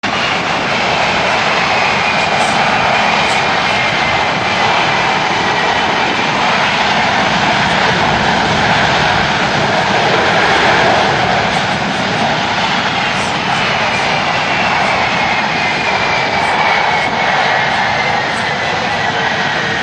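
Aircraft engines running loud and steady, with a high whine that slowly falls in pitch twice, once near the start and again in the second half.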